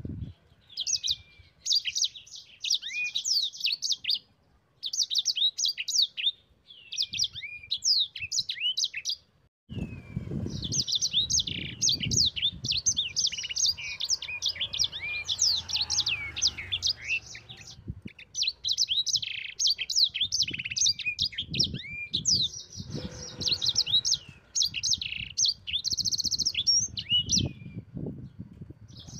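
Sanger songbird singing long, fast runs of high chirps and trills in bursts separated by short pauses, the continuous rolling song ('gacor', 'ngeroll') used to tutor other songbirds. A low rumble of background noise runs under the song for two stretches, in the middle and near the end.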